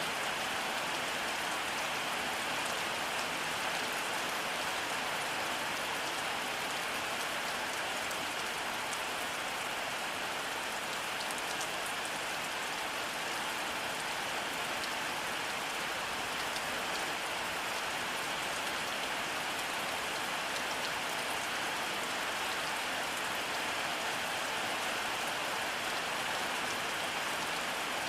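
Steady rainfall: an even hiss with the fine patter of individual drops, holding at one level throughout.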